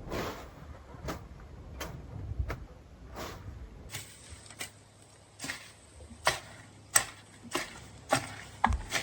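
A steady series of short, sharp knocks, about three every two seconds, crisper and louder from about four seconds in.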